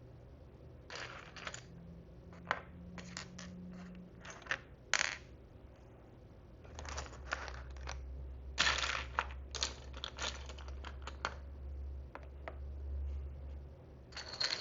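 Tiny plastic miniature food pieces and dishes clicking and clattering as they are handled, picked up and set down, in irregular clusters of light taps.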